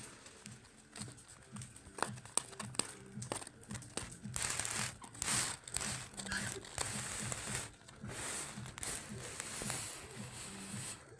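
Rustling and crinkling with many short clicks and taps, louder through the second half.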